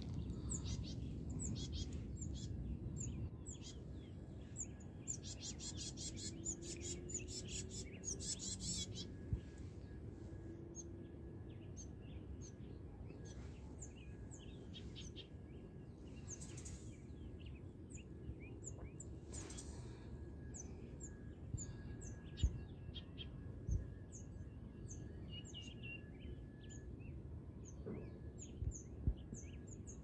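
Birds chirping in short, high notes repeated again and again over a steady low rumble. A fast, rattling trill comes about six to nine seconds in, and a few low knocks come in the second half.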